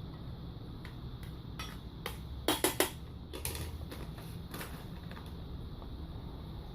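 Scattered light clicks and clinks, with a quick run of three sharp clicks shortly before the middle, over a low steady hum.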